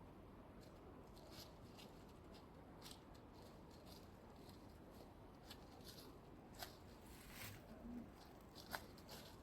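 Near silence with faint, scattered clicks and rustles, the most distinct one about nine seconds in.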